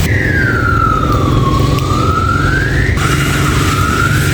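An emergency vehicle's siren: one long wail that falls and climbs back up in pitch, then quicker, shorter rise-and-fall sweeps from about three seconds in, over a steady low rumble.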